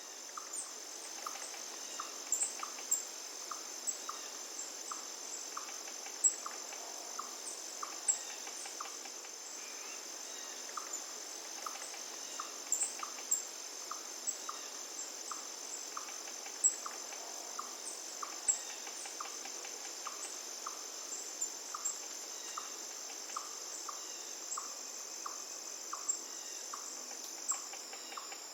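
Crickets trilling steadily on a high pitch, with a short lower note repeating about twice a second and scattered sharp high chirps.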